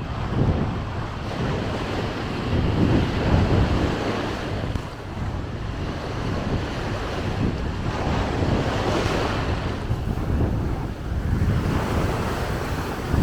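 Sea waves breaking and washing up a sandy beach, surging a couple of times, with wind buffeting the microphone underneath.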